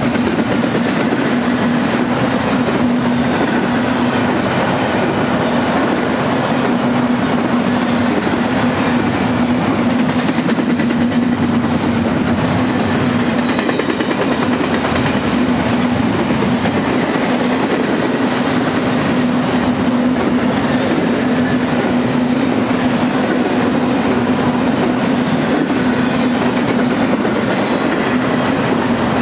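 Double-stack intermodal well cars loaded with containers rolling past, steel wheels on rail. The noise is loud and steady, with a steady low hum underneath.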